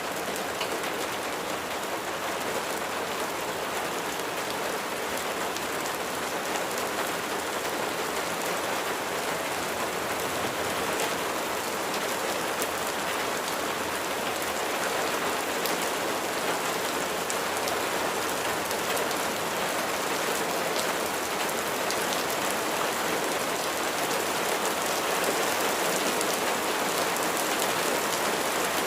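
Steady rain falling, an even hiss dotted with countless small drop impacts, holding at the same level throughout.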